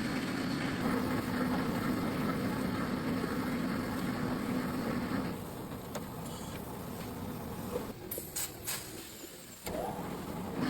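Factory machinery running steadily with a low hum. The sound changes and drops about halfway through, and a few sharp clicks come near the end.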